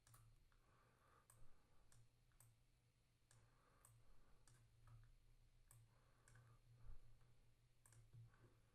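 Near silence with about a dozen faint, sharp clicks at uneven intervals, the sound of controls being clicked while working on a beat in music software.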